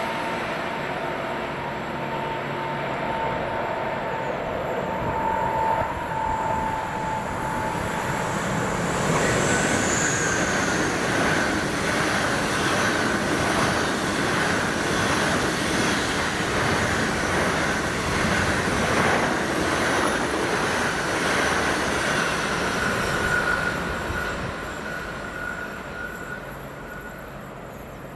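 A train running past on the track, its wheels squealing on the rails in a steady high whine over the rumble. It grows louder about a third of the way in and fades away near the end.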